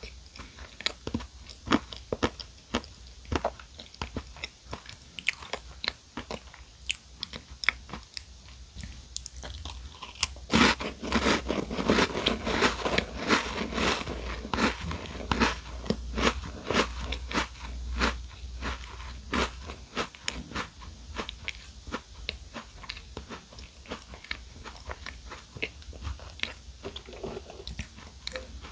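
Close-miked chewing of chocolate cupcake and cream sandwich cookie, with many small crunches and clicks. The crunching grows louder and denser about ten seconds in and eases off again about twenty seconds in.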